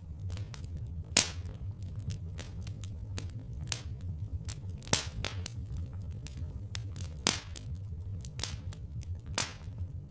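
Wood fire crackling and popping over a low steady rumble, with a few sharp louder pops, the strongest about a second in and again near the middle and end.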